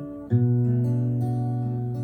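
Acoustic guitar playing: a new chord is struck about a third of a second in and left ringing, slowly fading, with a few more notes added over it.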